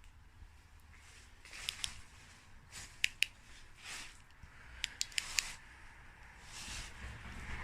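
Rustling and sharp crackling clicks of someone pushing on foot through overgrown vegetation and debris, the clicks coming in quick pairs and clusters, like twigs and stems snapping.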